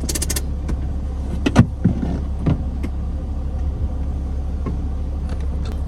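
Motorhome engine idling with a steady low hum, heard from inside the cab, with a few short clicks and knocks from inside the cab.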